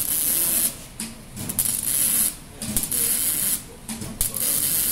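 A workshop tool run in short hissing bursts, each just under a second long, repeating about every one and a half seconds.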